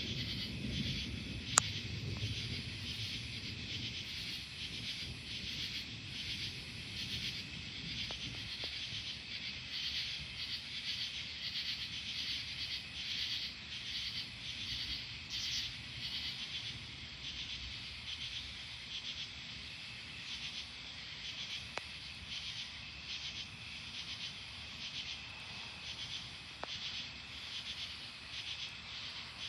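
Night insects chirping in a steady, fast-pulsing chorus, with a low rumble of distant thunder fading away over the first few seconds. A single sharp click sounds about a second and a half in.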